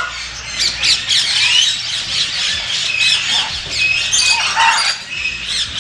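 Many birds squawking and chirping at once, short overlapping calls with no pause between them.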